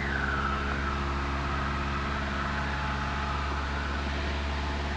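The 1977 Cessna 172N's four-cylinder Lycoming engine and propeller running steadily at go-around power, heard inside the cabin. A faint high whistle dips in pitch just after the start and then holds steady.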